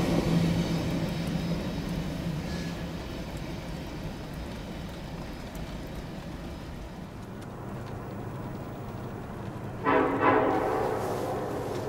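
A passing train's rumble dying away into a steady low hum, then two short locomotive horn blasts about ten seconds in.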